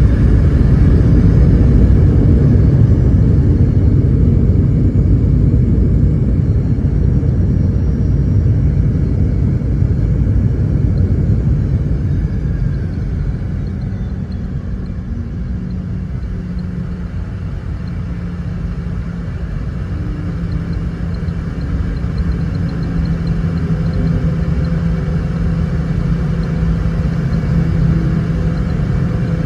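Inside the cabin of a Boeing 717-200 after landing: a loud low rumble that fades over the first fifteen seconds or so as the jet slows, then a steadier hum with a low held tone.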